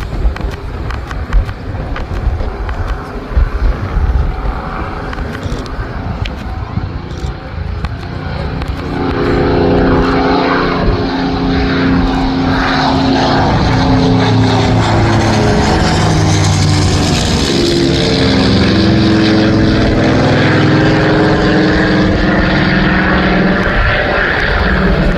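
Wind buffeting the microphone. From about nine seconds in, a propeller-driven piston-engined warbird grows loud with a deep engine note, and its pitch drops as it passes about two-thirds of the way through.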